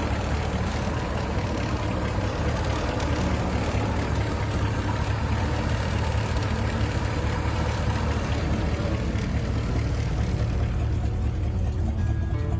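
Ford 302 V8 engine running steadily at idle.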